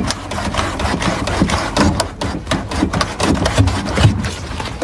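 A cleaning brush being worked back and forth in the gap of a washing machine drum, scraping with irregular knocks of the brush against the drum.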